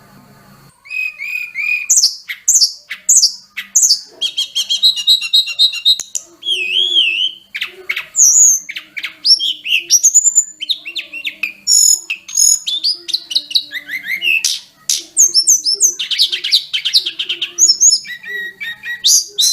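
Sulingan gunung (tledekan gunung) songbird singing a long, rapid, varied song of high whistles, slurred glides, chirps and trills. The song starts about a second in, after a faint hum, and runs on with hardly a pause.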